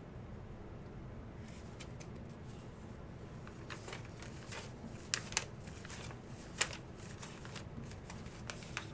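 Light rustling and handling noises over a steady low hum, with a few sharp clicks about five and six and a half seconds in.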